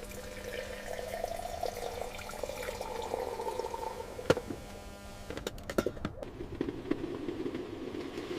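Liquid pouring into a container, rising in pitch as it fills, then a few sharp clicks and knocks about four to six seconds in, followed by another, lower-pitched pour.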